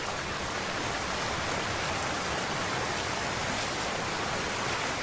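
Steady rushing noise of water, even and unbroken, with no single sound standing out.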